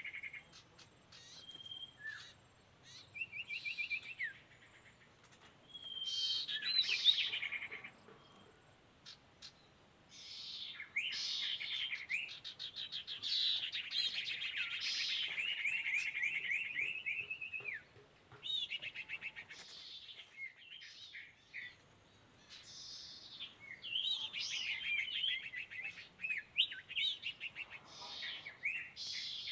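Sirtu bird song: repeated phrases of fast chirping notes, one long run of song in the middle and shorter bursts before and after, with short pauses between.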